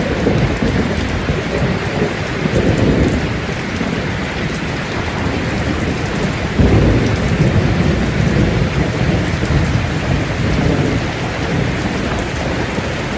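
Steady rain with rolling thunder rumbling underneath, the thunder swelling louder about halfway through.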